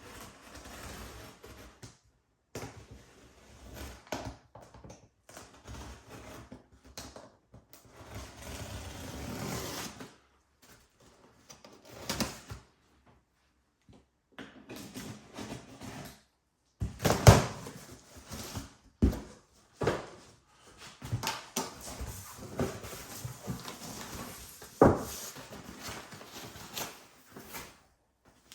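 Irregular handling noises in a small room: rustling with scattered knocks and thuds, the sharpest knocks coming in the second half, broken by several sudden silent gaps.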